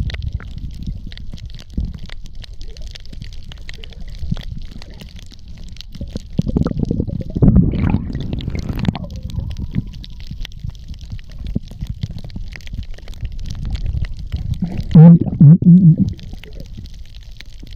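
Muffled underwater sound picked up by a camera in a waterproof housing during a spearfishing dive: a steady low rumble with a fine crackling hiss above it. Louder bubbling bursts come about halfway through, and a few strong short pulses come near the end.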